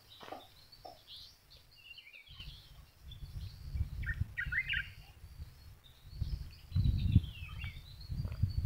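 Small birds chirping and trilling in the background, in short high calls and a few quick falling trills. Under them a low rumble on the microphone comes in about two seconds in and swells loudest around seven seconds.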